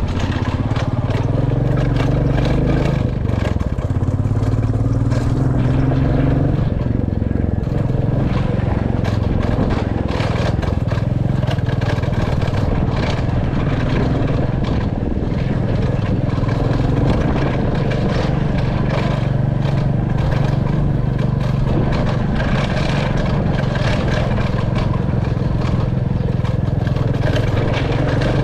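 Royal Enfield Classic 350's single-cylinder engine running under way, its pitch shifting briefly a few seconds in, with frequent clatter and knocks as the motorcycle rides over a rough, stony road.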